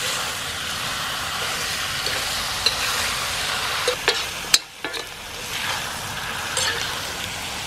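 Chicken pieces sizzling in hot spiced onion masala as they are stirred in the pan. A few short knocks of the stirring spoon against the pan come in the middle.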